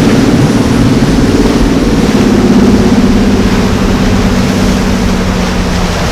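Motorboat engines running with a steady hum over a rush of noise; the engine tone fades about five seconds in.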